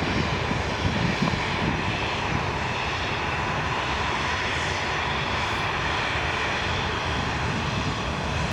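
Airliner engines running loud and steady, with a constant high whine over the noise of the engines.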